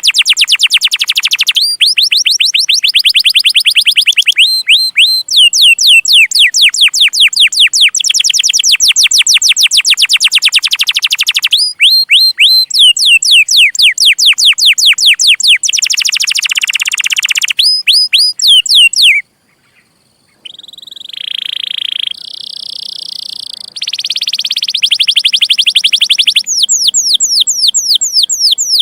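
Domestic canary singing a long song of fast, repeated chirps and trills that change pitch from phrase to phrase. About two-thirds through it breaks off for a second or so, gives a few longer held notes, then goes back to quick chirps.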